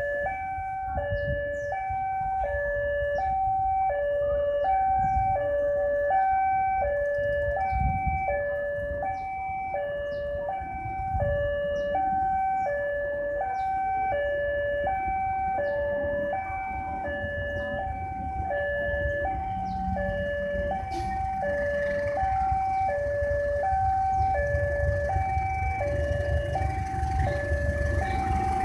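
Railway level-crossing warning signal sounding a steady two-tone alarm, alternating high and low about twice a second, over a low rumble. About two-thirds of the way through, a rising hiss joins in.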